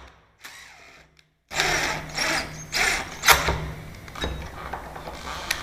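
Almost silent at first. About a second and a half in, a power drill/driver starts running in short spurts, with sharp metallic clicks and knocks from the lock hardware being worked.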